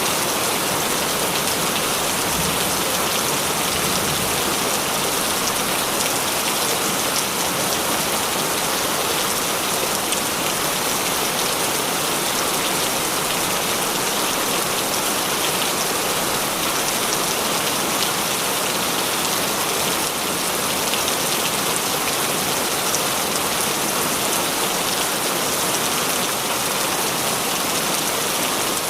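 Heavy rain falling steadily, a dense even hiss of drops hitting surfaces with scattered individual drop ticks.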